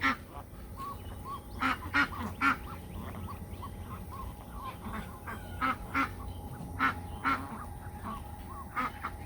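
Geese and ducks calling, short honks and quacks in small clusters every couple of seconds.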